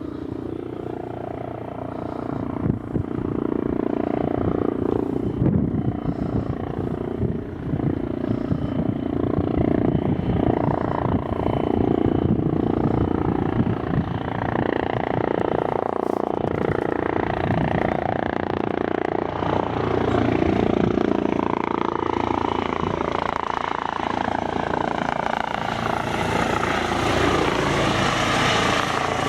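Helicopter's rotor beat and turbine engine as it comes in to land. It grows louder a few seconds in, and a higher turbine whine comes up near the end.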